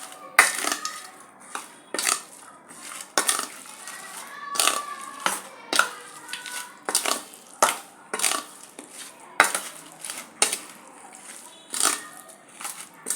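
Metal cooking utensil clinking and scraping against a pot or pan, sharp irregular knocks about once or twice a second, some ringing briefly.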